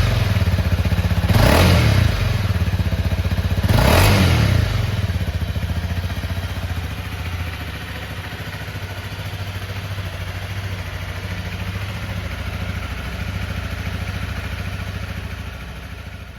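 2014 Honda CRF250M's single-cylinder four-stroke engine blipped twice with quick throttle revs about two and a half seconds apart, then idling steadily. The sound fades away near the end.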